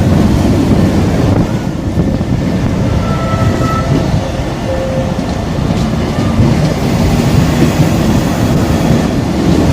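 Greater Anglia locomotive-hauled passenger train, propelled by a Class 90 electric locomotive, pulling out of the station. It makes a steady, loud rumble of coach wheels on the rails, with a couple of faint brief squeals.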